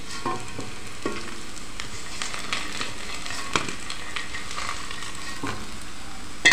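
Batter-coated kakrol (spiny gourd) fritters sizzling steadily in oil in an aluminium karai. A metal spatula scrapes and clicks against the pan as the fritters are lifted out, with a sharp clink at the end.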